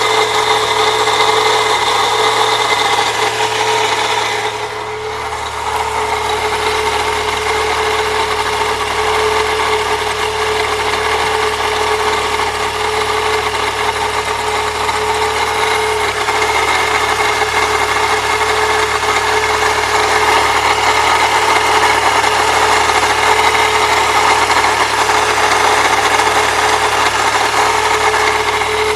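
1998 Saturn SL2's 1.9 L DOHC four-cylinder engine running with a steady grinding noise from the accessory belt drive. The noise remains after new idler and tensioner pulleys, goes away with the belt off, and does not change with the A/C on, which points to another belt-driven accessory.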